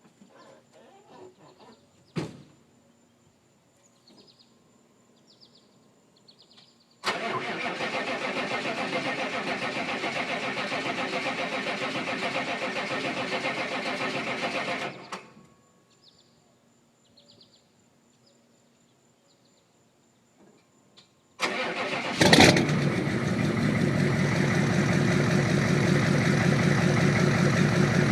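Cold start of a 6.5-litre Detroit diesel V8: the starter cranks for about eight seconds without the engine catching, then stops. After a pause it cranks again, the engine fires about a second later and keeps running, louder and steady. Birds chirp in the quiet gaps.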